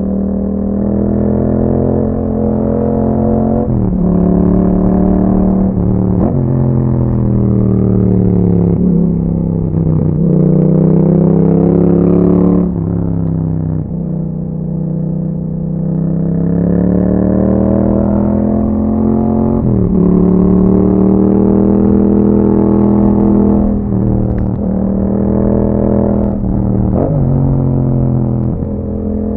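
A 2021 Yamaha MT-07's 689 cc parallel-twin engine running through an Akrapovic exhaust with a dB killer, ridden on the road. The engine note rises and falls repeatedly, with sudden drops in pitch from gear changes, about ten times across the stretch.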